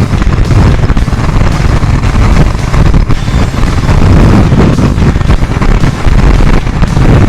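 Loud wind buffeting the microphone on a moving motorcycle, a constant low rumble with the bike's road and engine noise mixed in.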